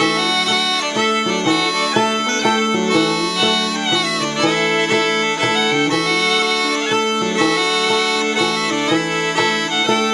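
Scottish smallpipes playing a slow waltz melody over a steady drone, with a gourd banjo plucking the accompaniment.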